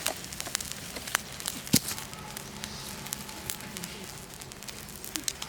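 Wood campfire crackling, with scattered small pops and one sharper pop a little under two seconds in.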